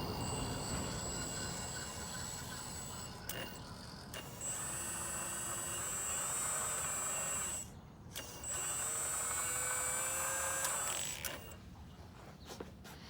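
A Magom HRC 330D CAT scale RC excavator's hydraulic pump whines high and steadily in three runs of about three seconds each, with short breaks and clicks between them, as its functions are worked.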